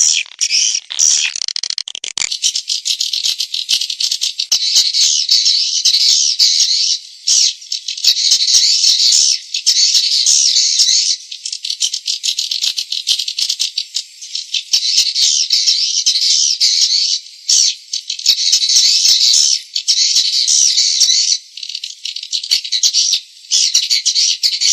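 Recorded swiftlet calls: a dense, rapid, high-pitched chattering twitter, broken by brief pauses every few seconds. This is a lure track played in swiftlet houses to draw the birds in to roost and nest.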